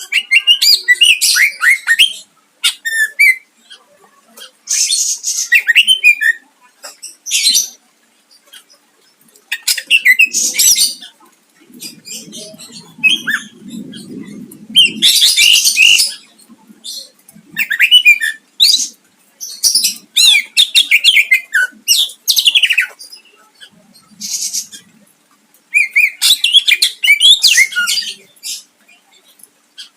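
Green leafbird (cucak ijo) singing loud, fast bursts of whistles, trills and harsh chattering notes, phrase after phrase with short pauses between them.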